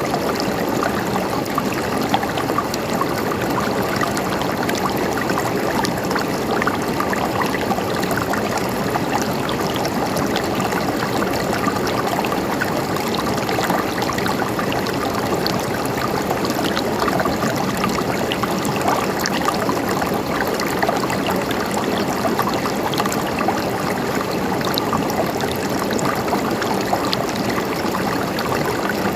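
Running water of a small stream babbling steadily, with many small splashes and droplets throughout.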